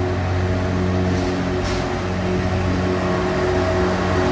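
A train running with a steady low hum made of several held pitches, and a short hiss about a second and a half in.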